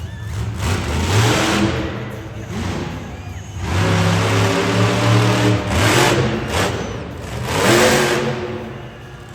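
Monster truck engine revving hard in repeated surges, its pitch climbing and dropping, loudest about four to six seconds in and again near eight seconds.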